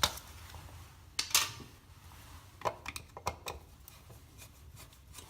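Scattered small sharp clicks and clinks of hand tools and fittings being handled, a few in the first second and a half and a quick cluster about three seconds in.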